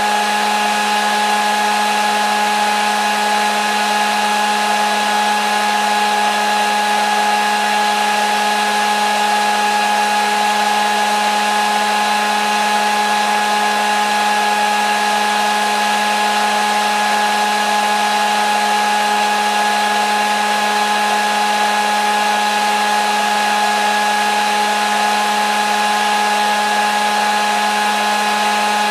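Electric hair dryer running steadily: a continuous rush of air with a steady motor whine, unchanging throughout.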